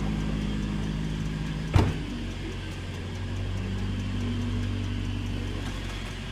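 Steady low hum inside a car's cabin, with one sharp click nearly two seconds in, after which the hum changes pitch and runs on.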